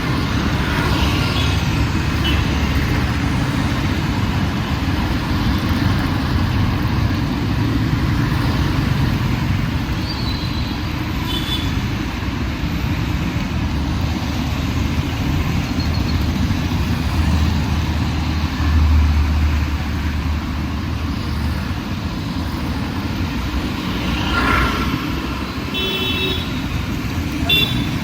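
Busy city road traffic: a steady rumble of passing engines and tyres, with a few short vehicle horn toots, a pair about ten seconds in and more near the end.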